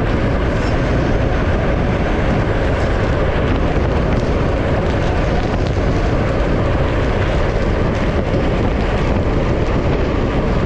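Loud, steady wind rush over the microphone of a camera riding on a fast-moving bicycle, with no engine tone heard.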